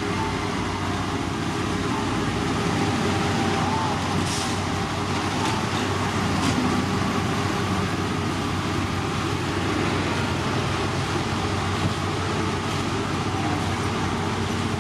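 Heavy road-construction machinery running steadily: an even engine drone with a wash of mechanical noise that does not pause or change.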